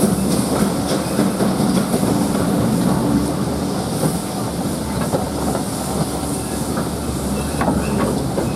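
Train hauled by GWR Prairie tank 5526 running along the line: a steady rumble of wheels on rail, with scattered sharp clicks of the wheels over rail joints.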